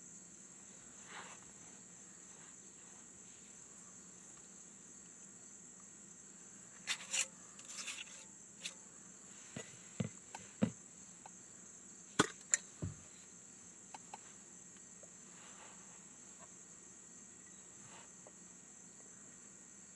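Crickets trilling steadily at a high pitch. A scattered run of light knocks and clicks, like wood being handled, falls in the middle.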